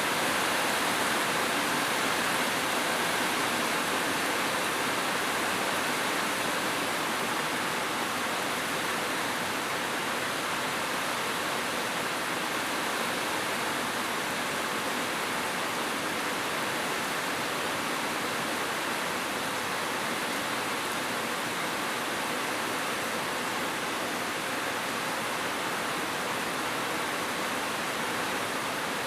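Steady rainfall, a dense even hiss without breaks or individual drops standing out.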